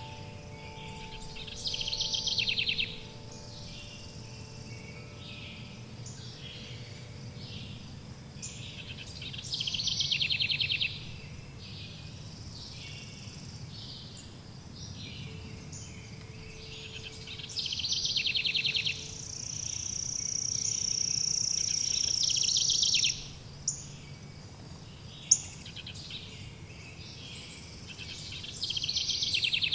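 Songbird singing a rapid trilled phrase four times, about eight seconds apart, over a steady low background hiss. A high, steady whistle is held for about four seconds midway. A wind chime's ringing dies away in the first few seconds, and two sharp clicks come soon after the whistle.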